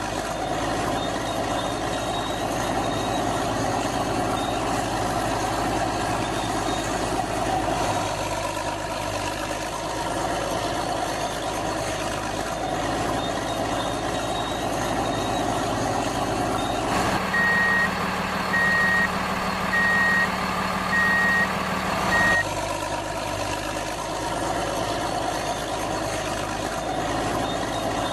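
Heavy diesel engines running steadily. Partway through, a reversing alarm beeps five times, about once a second.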